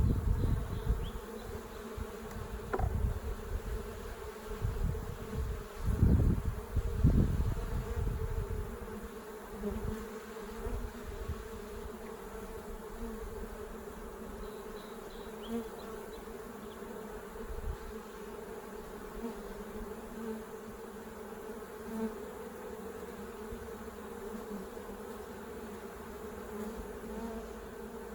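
Honeybees buzzing steadily around an open hive, a continuous hum. Low bumps and rumbling during the first eight seconds or so, as the hive is handled.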